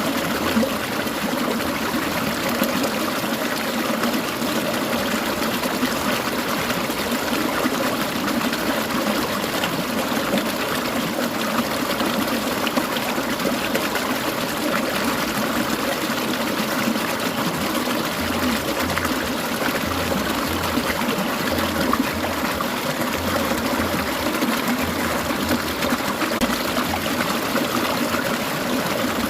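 Clear mountain stream babbling and trickling over rocks, a steady even rush of water.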